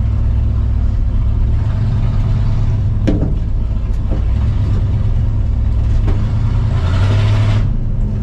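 1985 Ford F-250 pickup's engine running as the truck is driven in reverse, with a sharp click about three seconds in and the engine note swelling louder near the end.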